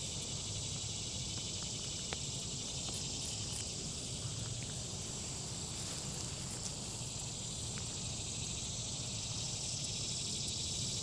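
Steady, high-pitched insect chorus, with a low rumble beneath it; no aircraft is heard.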